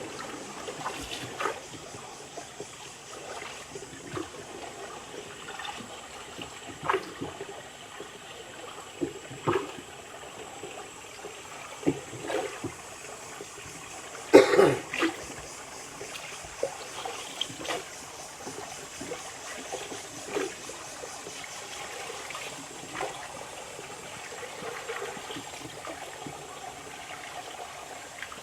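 Water trickling and splashing against a small boat, with irregular short splashes, the loudest about halfway through.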